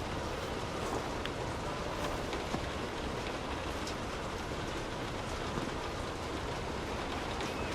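Steady rain falling on a street, with scattered drips ticking through the hiss.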